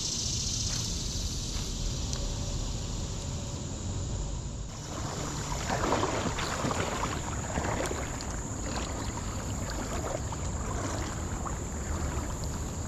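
Wind on the microphone over moving creek water. From about five seconds in comes a louder spell of splashing and crackling.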